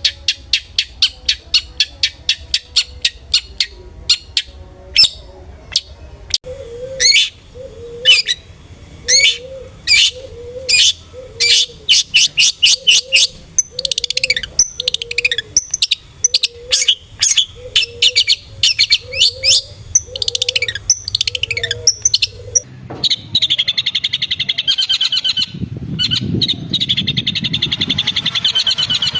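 Long-tailed shrike (cendet) calls played as a lure: a long run of sharp, rapidly repeated notes, changing about three quarters of the way through into a dense, continuous chatter.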